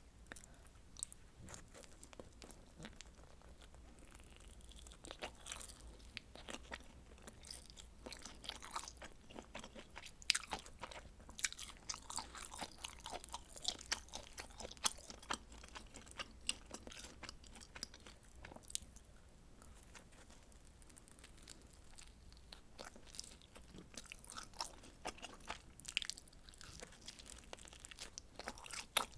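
Close-miked chewing and biting of pizza, with crisp crunches of the crust and small wet mouth clicks, coming in busy stretches.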